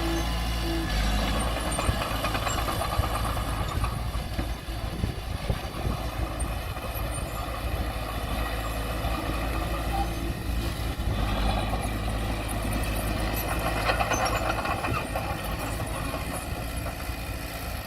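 Komatsu D20P bulldozer's diesel engine running steadily, with a rattling, clattering mid-range over the low engine hum.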